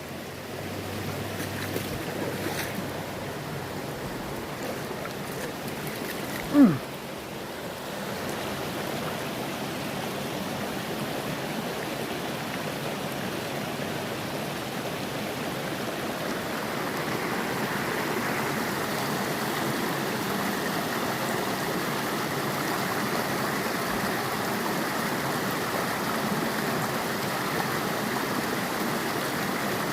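Mountain stream flowing: a steady rush of water that grows a little louder about halfway through. A short sound falling in pitch cuts in once, about six and a half seconds in.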